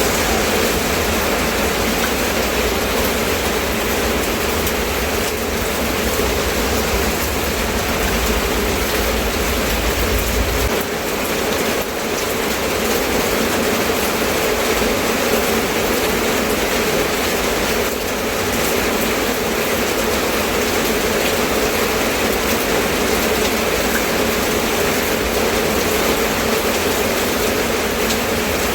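Steady rainfall, an even hiss that keeps the same level throughout. A low rumble sits underneath for the first ten seconds or so, then cuts off suddenly.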